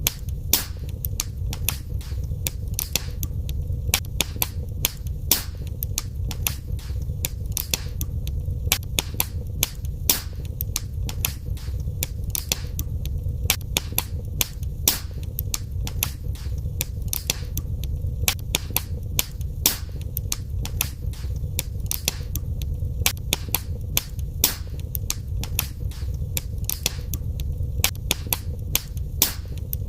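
Wood fire burning in a fireplace, crackling and popping several times a second over a steady low rumble of the flames.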